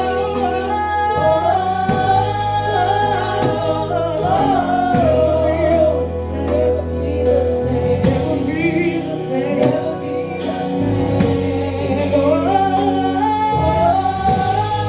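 Gospel praise music: voices singing a held, wordless melody over keyboard and bass with a steady drum beat.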